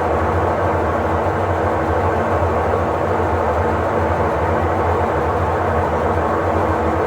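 Electrolux LTE08 top-load washing machine running, a steady low hum with a dense whir over it and no pauses or changes.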